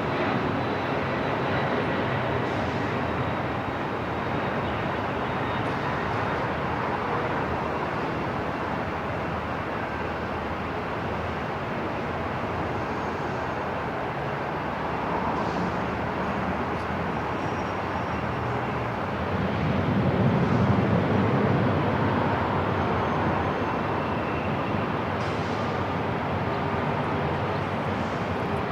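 Airport ambience: a steady, even rumble of distant engines and hall noise, with faint high tones here and there. It swells louder and deeper for a few seconds about two-thirds of the way through, then settles back.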